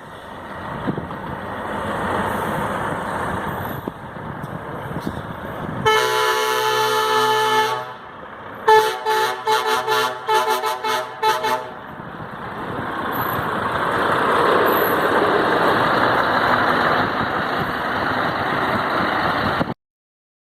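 Truck air horn: one long blast of about two seconds, then a quick string of short toots, over steady truck engine and road noise. The sound cuts off suddenly near the end.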